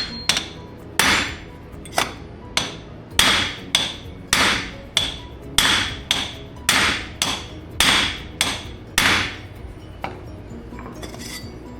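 Hammer blows on a homemade flange-forming tool, flaring the end of a 2.5-inch muffler pipe into a flange. About eighteen metallic, ringing strikes come roughly every half second, stop about nine seconds in, and are followed by two lighter taps.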